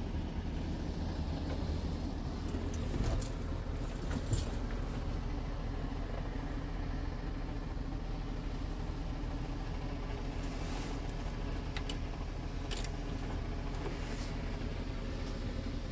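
Scania P truck's diesel engine idling steadily, with a few short metallic clicks and rattles a few seconds in and again near the end.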